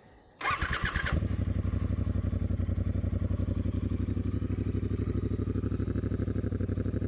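A 2022 Triumph Bonneville Speedmaster's 1200 cc parallel-twin starting. The starter cranks for under a second, and the engine catches a little over a second in, then settles into a steady, evenly pulsing idle. It runs through a Dr. Jekill & Mr. Hyde electronically adjustable exhaust with the valve closed.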